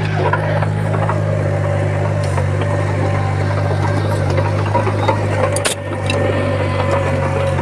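Heavy earthmoving machine's diesel engine running steadily, a low drone with a faint steady whine above it. A single sharp click comes about three-quarters of the way through.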